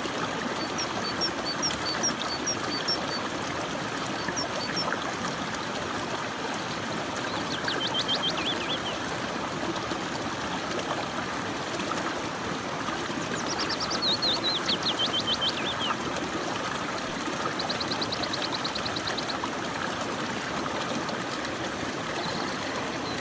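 Steady flowing stream water, with small birds chirping over it: quick repeated chirps in the first few seconds, then several short trills later on.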